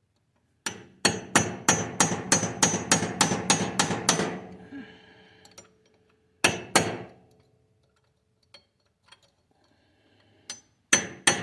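Hammer striking a steel punch to drive a broken roll pin out of a tractor's front drive shaft, with metallic ringing. A rapid run of about fifteen blows, roughly four a second, is followed by two more blows and then another quick run near the end. The pin does not seem to be moving.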